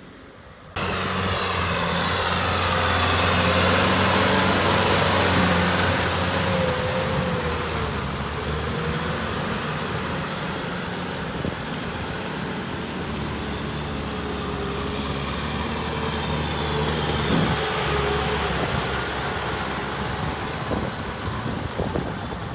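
Kubota tractor engine running steadily under load while plowing, with a rushing noise over it; the sound cuts in abruptly about a second in and is loudest a few seconds later.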